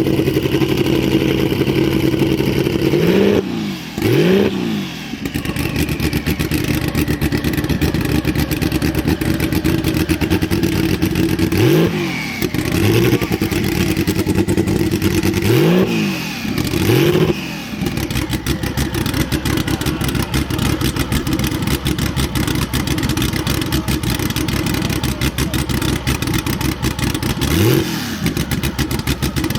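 Porsche 935/78 K3 Kremer racing car's twin-turbo flat-six idling, revved in short throttle blips about seven times, in two close pairs and scattered singles.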